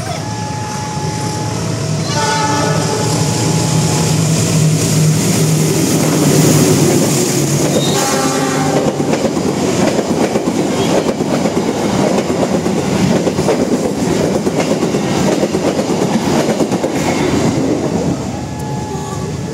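Diesel-hauled passenger train passing close by. Its horn sounds about two seconds in and again about eight seconds in, over the locomotive's engine hum. Then come the rumble and clickety-clack of the coaches' wheels over the rail joints, which fade near the end as the train goes by.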